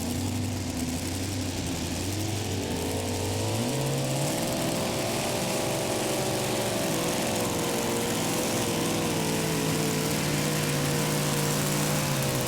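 Super modified two-wheel-drive pulling truck's engine running steadily, then revving up about two seconds in and held at high revs with a wavering pitch, under load pulling the sled, before easing off at the very end.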